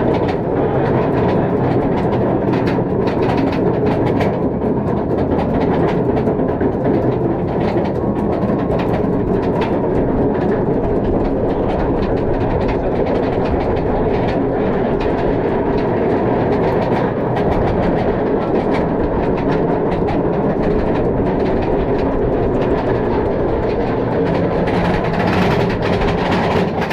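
Roller coaster chain lift clanking steadily as the train climbs the lift hill of a B&M dive coaster, with a rapid run of clicks from the anti-rollback.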